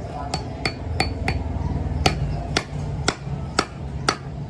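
Metal being struck repeatedly, about ten sharp blows: four quick ones, then a slower, even series about half a second apart. The first few ring briefly. A steady low hum runs underneath.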